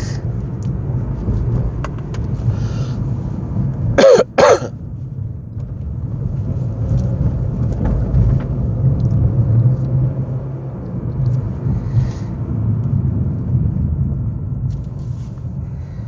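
Steady low rumble of a car driving, heard from inside the cabin. About four seconds in, two sharp coughs close together, the loudest sound here, from the driver, who has a cold.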